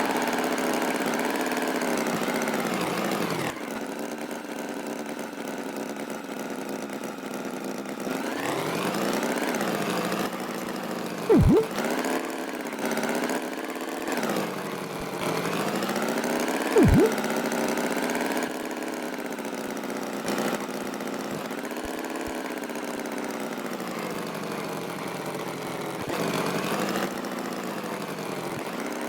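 Tractor engine sound effect running, its pitch rising and falling as it revs, with two brief loud swooping noises about five seconds apart.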